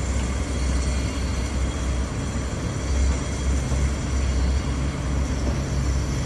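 A 56-metre boom concrete pump running steadily, its engine and pumping machinery making a continuous low rumble.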